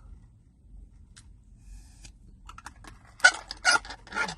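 A person coughing three times in quick succession, about three seconds in, after a quiet stretch.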